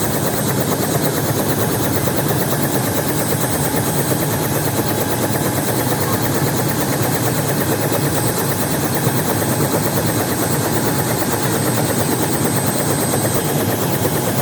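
Helicopter heard close up, its rotor blades beating in a fast, even chop over the steady engine noise.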